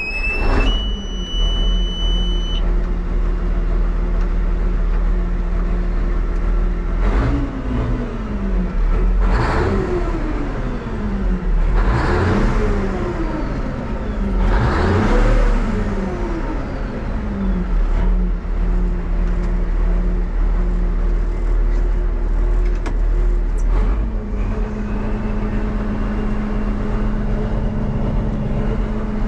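Steiger Cougar four-wheel-drive tractor's diesel engine running, revved up and let back down several times between about 7 and 18 seconds in, then settling to a steady speed. A high steady buzzer tone sounds at the start and cuts off about two seconds in.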